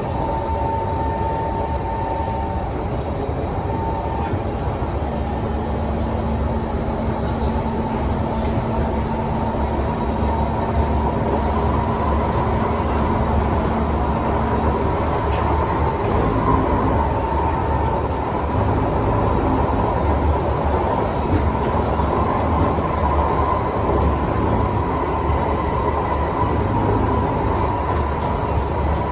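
Kawasaki C151 metro train running between stations, heard from inside the car: a steady rumble of wheels on rail with whining motor tones that come and go and shift slightly in pitch.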